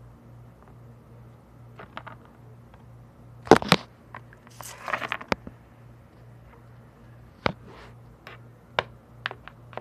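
Scattered sharp knocks and clicks over a low steady hum, the loudest a quick double knock about three and a half seconds in, followed by a short rustle.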